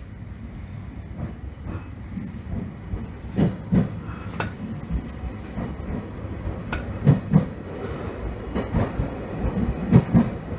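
An electric commuter train pulling away, its wheels clacking over rail joints in pairs of knocks under a low running rumble. The rumble grows louder and the pairs come closer together as it gathers speed.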